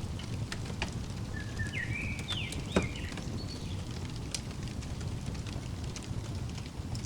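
Wood fire crackling, with scattered sharp pops over a steady low roar; the loudest pop comes a little before the middle. A bird chirps a short phrase of quick up-and-down notes around the same time.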